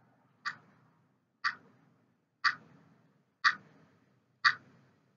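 Countdown timer ticking: five sharp ticks, one a second, each fading quickly.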